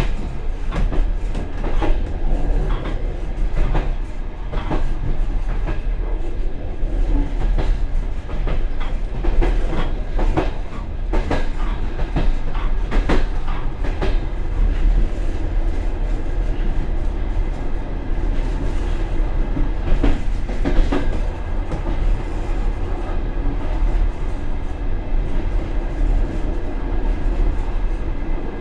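Passenger train running along the track, heard from inside the rear vestibule of the last car: a steady low rumble with irregular clicks and knocks of the wheels over rail joints, more frequent about a third of the way in and again past the middle.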